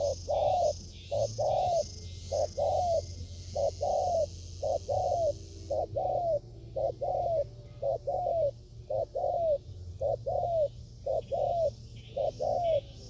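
Spotted dove (tekukur) cooing: a steady run of paired short, arching coo notes, about one pair a second. A high pulsing buzz sounds behind it and stops about halfway through.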